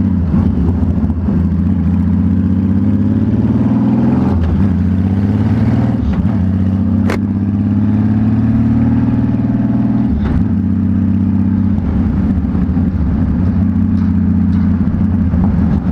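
Straight-piped Honda Valkyrie flat-six motorcycle engine pulling through the gears. The exhaust note rises, drops at three gear changes, then holds steady at cruising speed, with a sharp click about seven seconds in.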